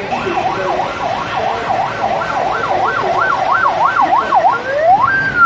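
Fire truck's electronic siren in a fast yelp, sweeping up and down about three times a second. Near the end it switches to a slow wail, rising to a high held note.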